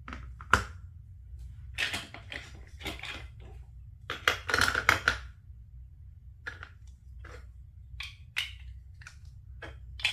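Plastic Lego Duplo bricks clicking and clattering as they are handled and fitted together, in irregular bursts: a dense run of rattling in the middle, then scattered single clicks.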